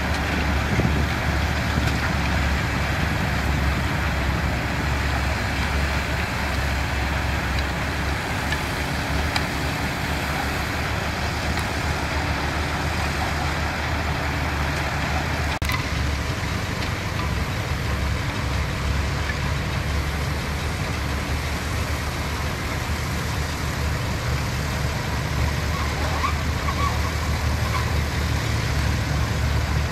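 Diesel engines of heavy construction machinery running steadily with a deep low rumble and mechanical noise.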